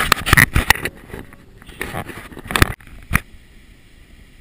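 A quick run of clattering knocks and rustles, with two more sharp knocks about two and a half and three seconds in: handling noise on a GoPro in its waterproof case, muffled by the housing.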